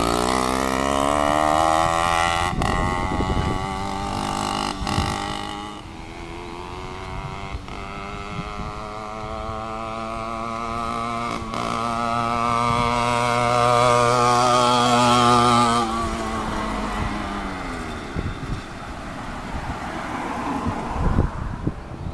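Two-stroke engine of a motorized mountain bike running under way, its pitch climbing as it accelerates. It eases off about six seconds in, then climbs steadily again for some ten seconds, falls away as it slows, and picks up again near the end. A few sharp knocks are heard along the way.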